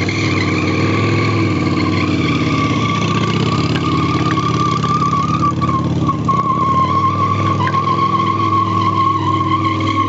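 Harley-Davidson Dyna's Twin Cam V-twin running hard under steady throttle, with a sustained high squeal from the rear tyre sliding in a drift.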